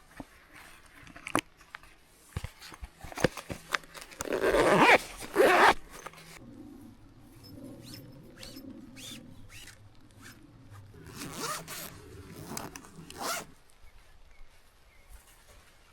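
Handling noises: scattered clicks and two loud rasping strokes about four and a half and five and a half seconds in, then more rasping strokes near the end.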